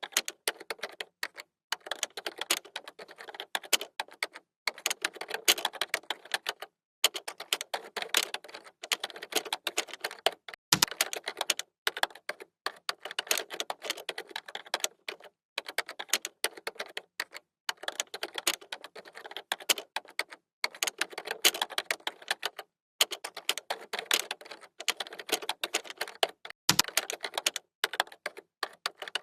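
Computer keyboard typing: runs of rapid keystrokes broken by short pauses, with two heavier key strikes that land with a deeper thump, about a third of the way in and near the end.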